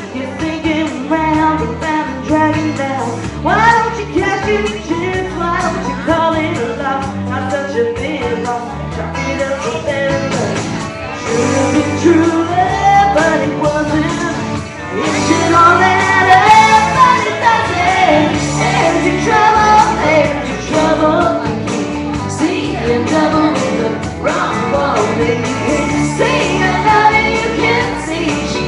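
Loud music with a singer's voice over it, performed live.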